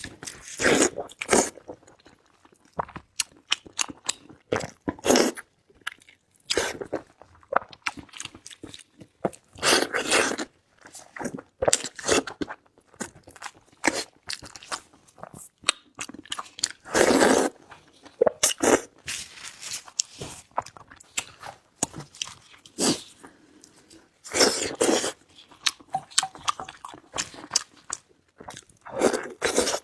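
Close-miked eating: a person chewing and biting food with irregular loud crunches and wet mouth noises.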